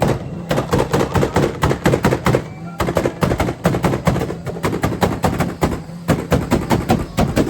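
Nissan 200SX's tuned engine held at high revs through a very loud straight exhaust, firing rapid, irregular bangs and pops. The bangs stop near the end.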